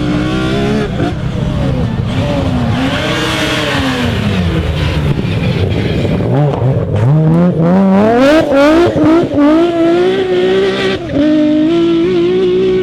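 Rally car engine coming off the throttle with its pitch falling, tyres squealing briefly about three seconds in. It then accelerates hard with the pitch climbing through several quick gear changes, and holds high revs near the end.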